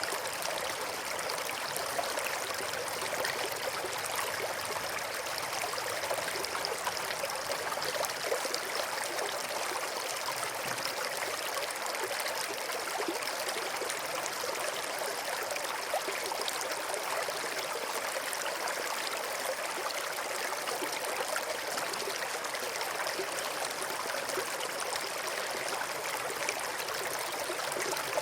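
River water flowing steadily over and between rocks: a continuous rushing and babbling with no pauses.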